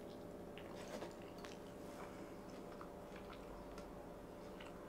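Faint chewing of a bite of roast beef sandwich on a ciabatta roll: soft, irregular mouth clicks and crackles over a steady low hum.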